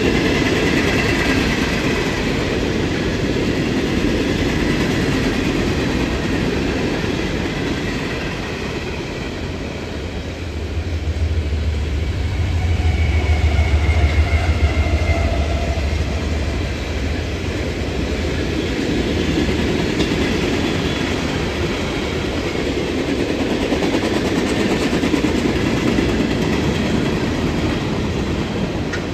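Freight train cars rolling past, their steel wheels clicking over the rails. A deeper rumble swells for several seconds around the middle.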